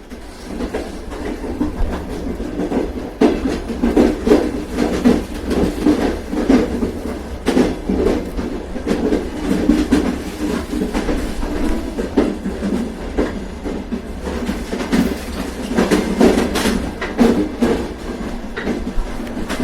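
Train running along the track: a steady rumble of the railway carriage with the clickety-clack of wheels passing over rail joints.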